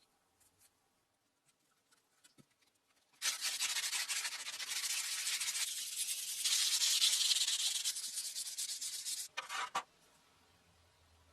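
Sanding: a rough, continuous rubbing hiss that starts about three seconds in and lasts some six seconds, then a few short separate strokes.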